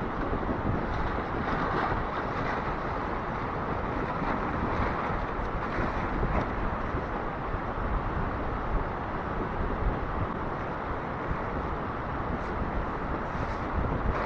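Steady rushing outdoor noise with no pitch, even in level throughout, with a few faint knocks near the end.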